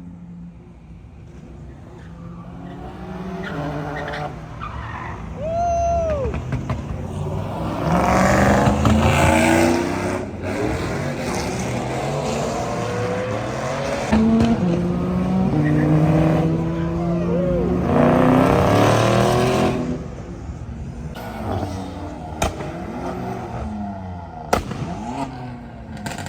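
Car engines revving hard, rising and falling in pitch through several loud swells, with tyres skidding and squealing. A few sharp cracks near the end.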